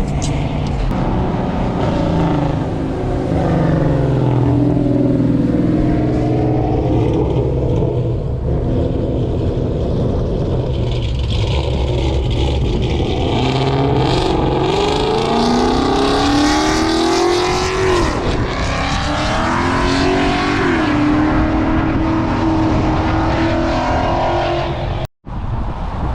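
Car engines running and revving, their pitch rising and falling several times. The sound cuts out for an instant near the end.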